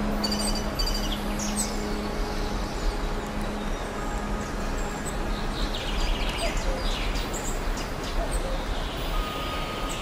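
Songbirds chirping and singing, several short calls and quick falling notes, busier in the second half. Underneath runs a steady low rumble, with a low hum through the first few seconds.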